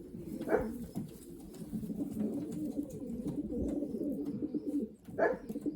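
Racing pigeons cooing continuously in a loft, with two short sharper sounds, one about half a second in and one near the end.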